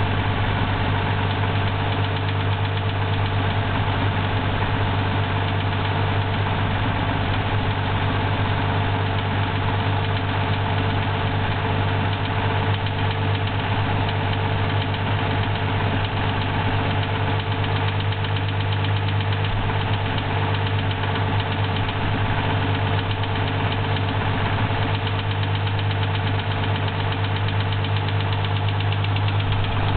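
Toyota 2F straight-six petrol engine running steadily with a knock in it.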